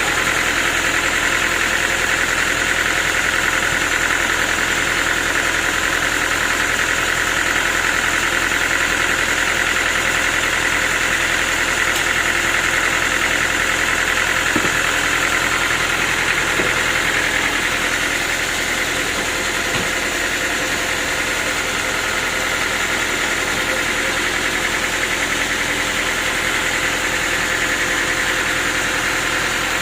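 Sawmill machinery running steadily, a motor-driven saw with an engine-like drone and a higher continuous whine. It eases off slightly a little past the middle.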